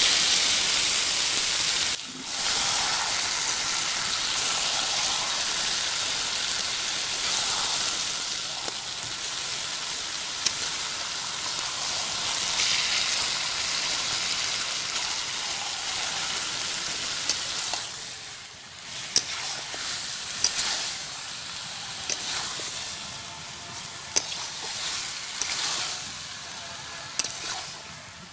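Marinated chicken pieces sizzling in hot oil with frying onions in a kadai, stirred with a metal spatula. The sizzle is loudest at first and dies down after about eighteen seconds, leaving scattered scrapes and clicks of the spatula against the pan.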